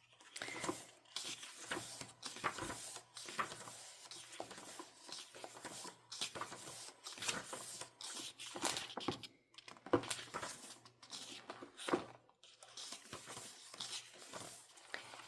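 Paper pages of a planner being handled and turned: irregular soft rustling with light taps and brushes.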